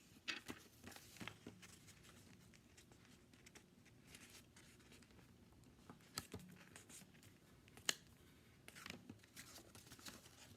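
Sheet of paper being folded and creased by hand: faint, scattered rustles and crinkles, with a sharper crisp snap about eight seconds in.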